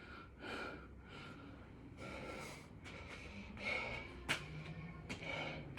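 A man breathing hard from exercise: a run of heavy breaths in and out, about one every second or so, with a sharp click about four seconds in.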